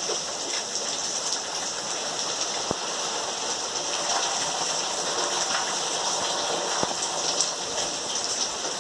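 Light rain falling in a steady hiss, with a couple of single drops tapping near the middle and near the end.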